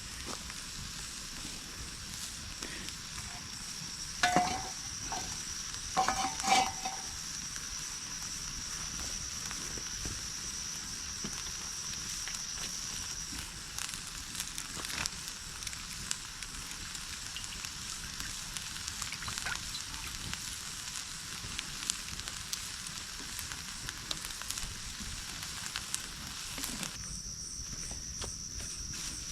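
Food sizzling as it fries in a pan over a campfire, a steady crackling hiss, with a few sharp knocks about four and six seconds in.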